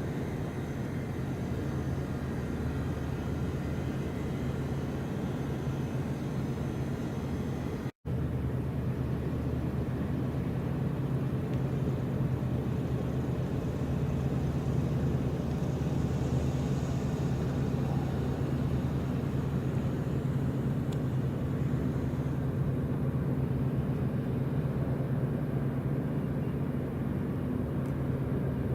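Steady low drone of a ship's engines running, with a constant low hum throughout; the sound drops out for an instant about eight seconds in.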